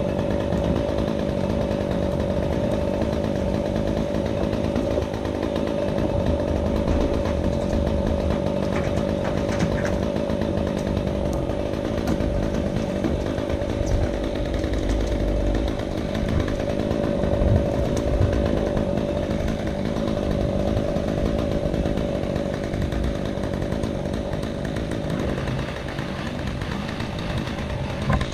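Chainsaw running at a steady high speed, cutting through wood.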